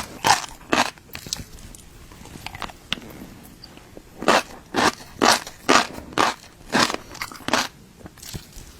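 Crunchy bites and chewing of fish roe: two crunches near the start, a pause, then a run of about seven crunches at roughly two a second from about four seconds in.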